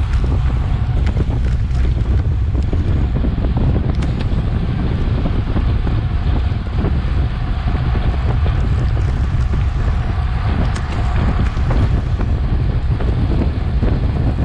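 Steady, heavy wind buffeting on a Garmin VIRB action camera's microphone from riding at racing speed in a bicycle criterium, a loud low rumble with a few faint clicks.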